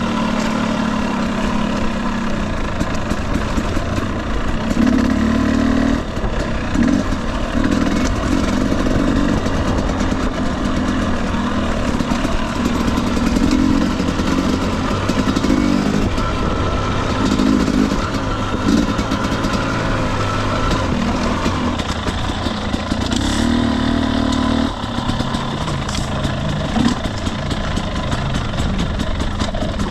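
2021 Husqvarna TE250i two-stroke dirt bike engine running on a trail ride, the throttle opening and closing every second or two, with short knocks mixed in.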